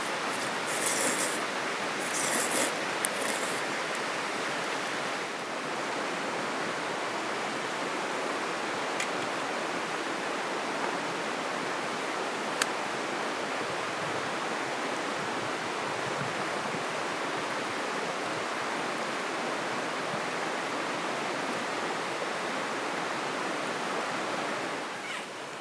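Steady rushing of flowing river water. A few brief rustles and knocks come in the first few seconds, and a single sharp tick about halfway through.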